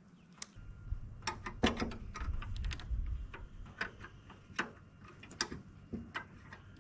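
Irregular metal clicks and knocks of hand tools and parts as components, starting with the forward-reverse shifter rod, are removed from a backhoe's dash, with a low rumble through the first half.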